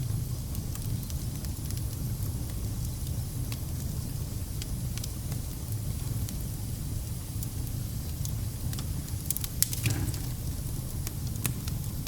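Wood fire burning in a fireplace: a steady low rumble of flames with scattered crackles and pops, and a quick cluster of louder pops about ten seconds in.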